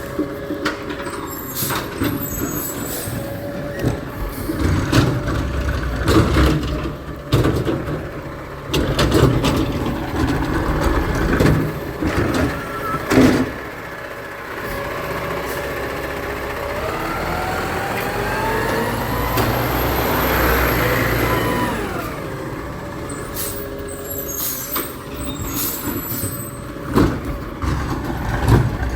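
Garbage truck at work: repeated clanks and knocks from the truck. About halfway through, its engine revs up in a rising whine for several seconds, then drops back before the knocking resumes.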